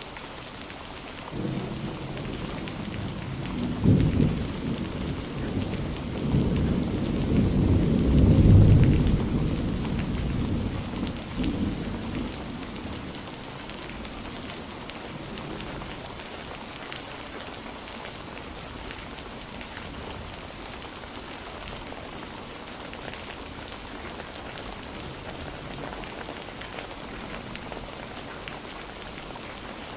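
Steady rain falling, with a roll of thunder rumbling in about a second and a half in, swelling to a peak around eight seconds and dying away by about twelve seconds, leaving only the rain.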